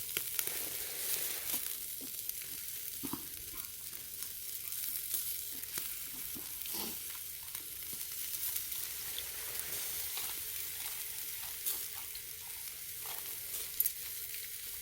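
Pork neck sizzling on a grill over a charcoal brazier: a steady fizzing hiss with scattered small pops and crackles.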